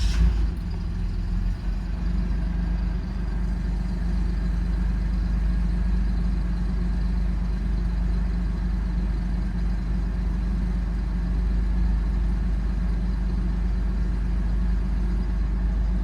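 2002 Toyota 4Runner engine catching on start with a brief surge, then settling into a steady idle that keeps running instead of stalling. The mass airflow sensor is unplugged, so the engine is running on default fuel values.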